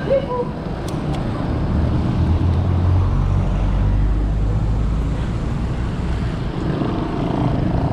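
Road noise recorded from a moving bicycle: wind rushing over the camera microphone, with a low rumble that builds about a second and a half in and fades away near the end.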